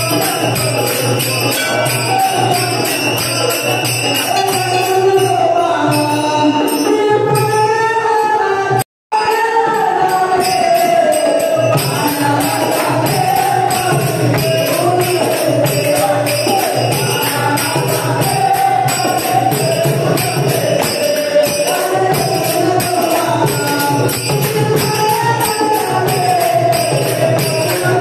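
Marathi devotional bhajan: melodic singing over jingling percussion that keeps a steady beat. The sound cuts out completely for a moment about nine seconds in.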